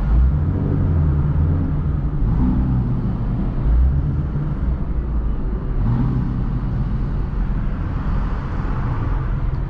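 Ford Mustang Shelby GT350's 5.2-litre flat-plane-crank V8 running steadily at low revs while the car is driven, with road noise.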